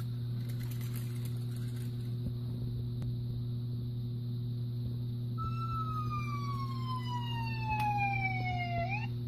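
A steady electrical hum, then about five seconds in a police siren tone that falls slowly in pitch for several seconds and turns up briefly at the end.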